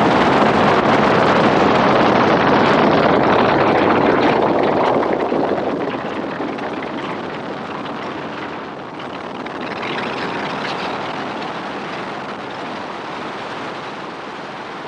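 Helicopter noise mixed with rushing wind on the microphone, loud for about the first five seconds and then fading to a steadier, quieter rush.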